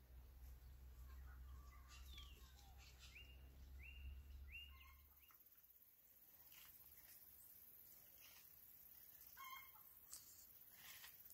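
Faint birds calling: a run of short, repeated high chirps in the first half, then a few scattered calls. A low rumble underneath stops about halfway.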